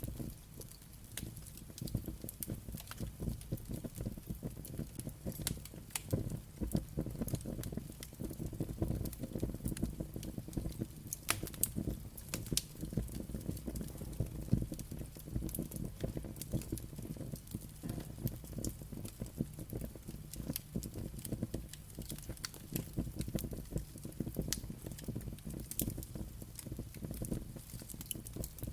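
Wood fire crackling steadily, with frequent sharp pops and snaps over a low rumble of burning.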